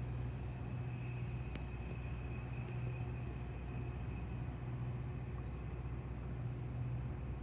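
Metra commuter train running, a steady low hum with a thin steady high whine above it.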